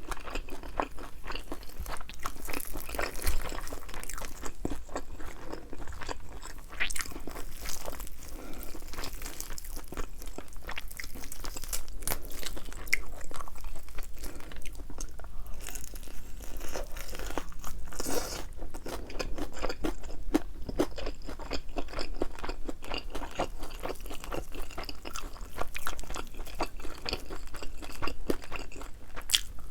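Close-miked crunching and chewing of fried chicken wings with a thin, crispy batter coating, in irregular crackly bites.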